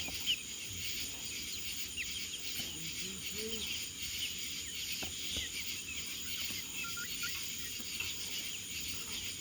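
Night chorus of crickets and other insects: a steady, dense, high-pitched chirring that carries on without a break.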